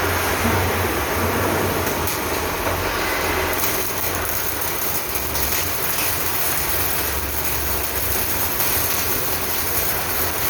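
Steady mechanical noise in a truck-body fabrication workshop, with a low hum and scattered faint clicks.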